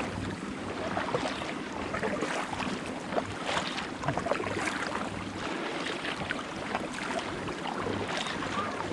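Kayak paddles dipping and splashing in sea water, about one stroke a second, with wind on the microphone.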